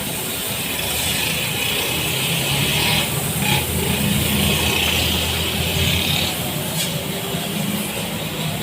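Car wash equipment running steadily: a low motor hum under a hissing water spray.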